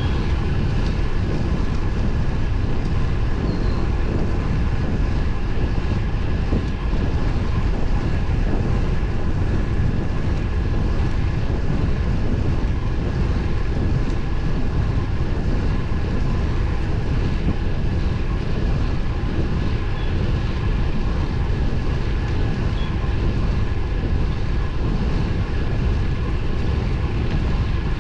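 Steady wind rush on the microphone and road noise from a road bicycle riding at speed.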